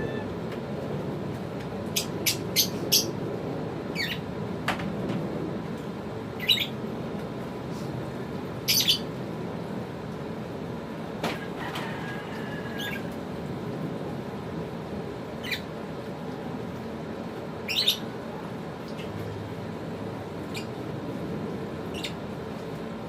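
Lovebirds giving short, shrill chirps and squawks: about ten single calls and quick runs of two or three, spread irregularly over steady background noise.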